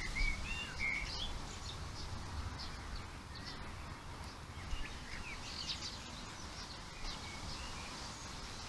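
Small wild birds chirping in short rising and falling notes, a quick flurry in the first second or so and scattered chirps later, over a steady low background rumble.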